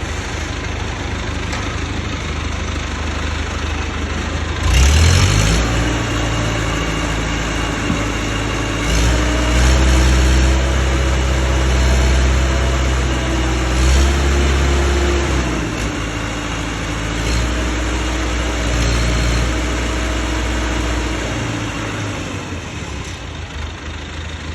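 Heavy diesel engine running, revving up sharply about five seconds in, working harder for a stretch, then settling back toward idle near the end.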